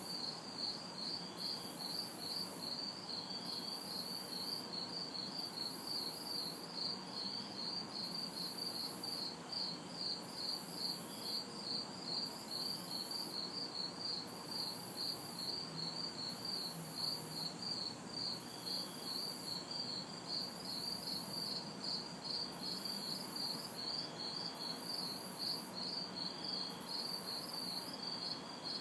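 Crickets chirping in a steady, even pulse, with a second, higher-pitched insect call coming in regular spells about every second and a half to two seconds. A faint low hum of distant traffic lies underneath.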